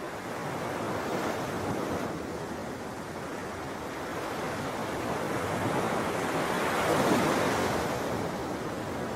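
Sea waves washing on a shore: a steady rush of surf that swells slowly to a peak about seven seconds in, then eases back.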